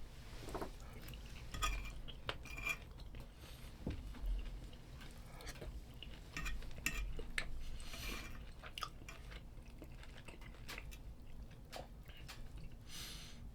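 Irregular clinks and scrapes of metal utensils against cookware, with chewing in between.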